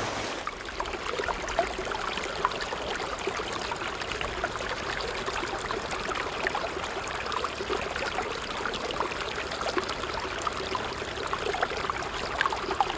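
Shallow river water trickling and babbling steadily, with many small bubbling ticks.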